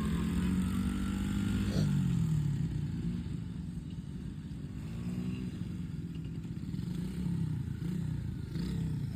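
Small single-cylinder dirt bike engine running, its pitch rising and falling as the throttle is worked. It is loudest in the first couple of seconds, eases off in the middle, and picks up again near the end.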